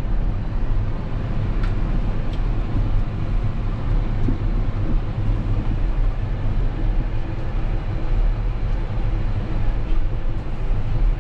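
Tractor engine running steadily, heard from inside the closed cab as a low, even rumble.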